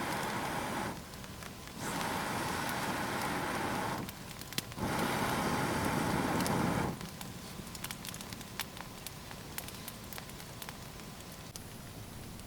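Campfire crackling, with scattered sharp pops and snaps in the second half. In the first seven seconds, three rushes of hissing noise, each one to two seconds long, start and stop sharply over it.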